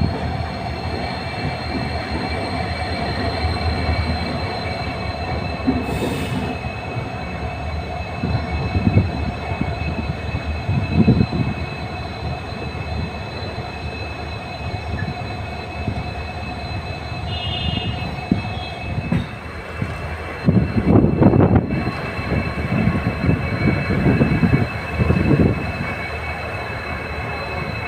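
Passenger train slowing into a station: a steady high squeal from the braking wheels over the rumble of the coaches, with a few heavier knocks and jolts in the second half.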